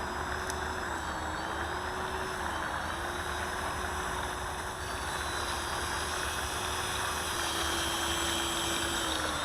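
Electric radio-controlled model aeroplane in flight, its motor giving a steady whine that dips slightly in pitch a few times and drops away as the throttle comes off near the end.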